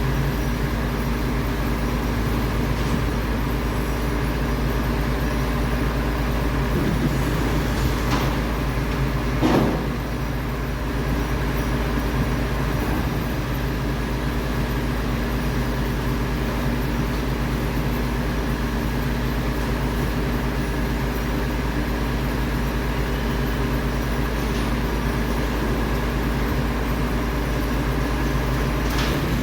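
Diesel engine of a MAN TGS 26.320 garbage truck running steadily, with a brief swell a little under ten seconds in.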